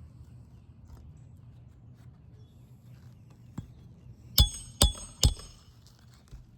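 A hammer driving a roofing nail through asphalt shingles: a light tap, then three hard blows about half a second apart, each with a short metallic ring.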